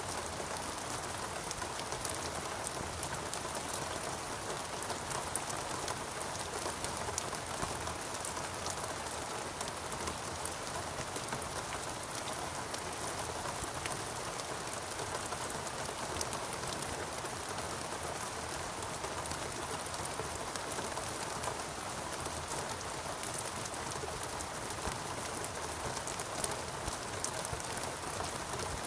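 Steady rain falling in a rainforest, a dense even patter with many fine drop ticks.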